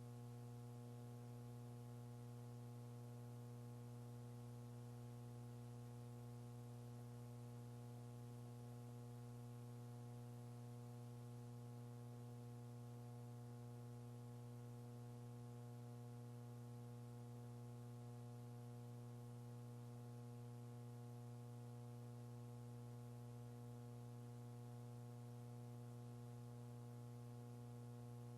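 Faint steady electrical hum with a row of higher overtones and a soft hiss underneath, unchanging throughout: mains hum on an otherwise silent audio feed.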